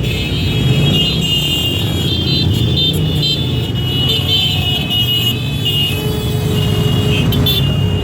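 Motorcycle engines running steadily, with high steady tones sounding over the engine noise throughout.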